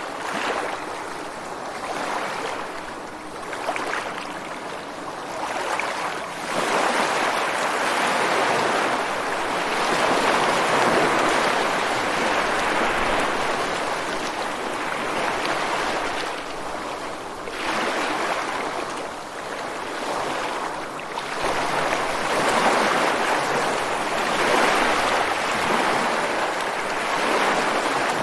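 Ocean surf breaking and washing ashore over sand and rocks: a continuous hiss of water that swells with each incoming wave and ebbs between them, with louder surges about a quarter of the way in and again in the last third.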